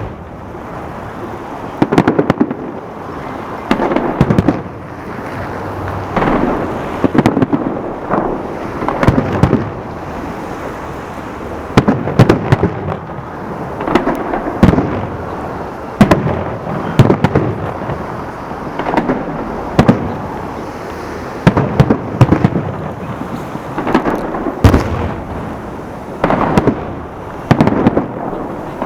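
Fireworks salute: aerial shells bursting one after another, often in quick clusters, every second or two, each bang followed by a rumbling echo.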